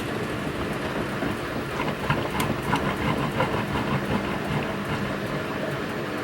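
Front-loading washing machine running mid-wash: a steady motor hum as the drum turns. From about two seconds in, a run of quick clatters and splashes comes from the tumbling laundry and water.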